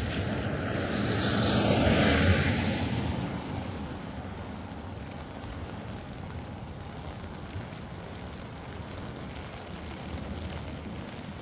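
A car passing on wet pavement: tyre hiss swells to a peak about two seconds in and fades away, leaving steady rain.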